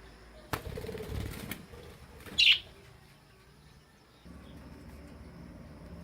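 Budgerigar wings flapping rapidly in flight for about a second, then a single short, loud, high chirp.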